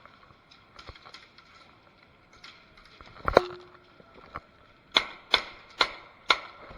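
Airsoft guns firing: a few faint clicks about a second in, a loud sharp crack about three seconds in with a brief ringing tone after it, then four sharp shots roughly half a second apart near the end.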